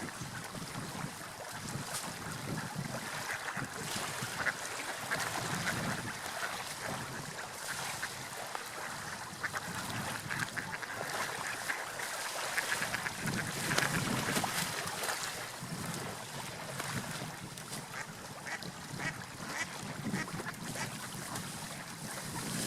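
Gulls calling again and again over a steady wash of sea waves.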